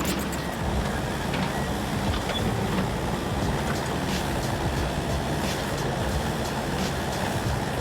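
Heavy machinery engine running steadily, with occasional knocks or clanks.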